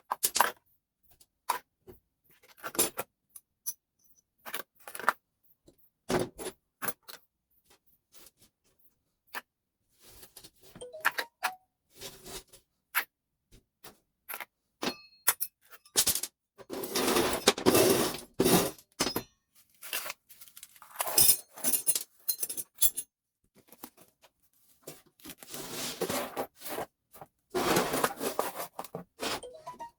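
Hand disassembly of a Telemecanique fuse switch: scattered clicks and clinks of small metal and plastic parts being handled and pulled apart, with a few longer spells of scraping or rubbing, the longest about halfway through and near the end.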